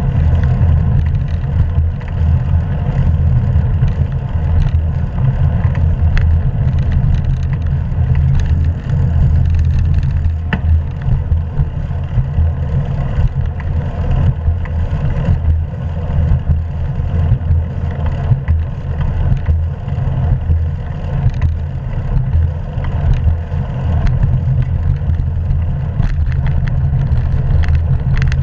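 Wind buffeting the microphone of a GoPro action camera carried on a moving bicycle, a loud, steady low rumble that flutters throughout, mixed with tyre and road noise.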